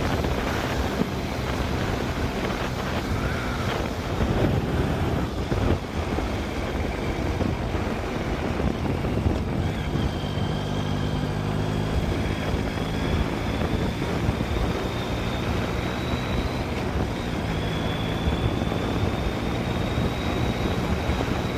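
Yamaha FZ-09's three-cylinder engine running steadily as the motorcycle rides along, with wind noise on the microphone.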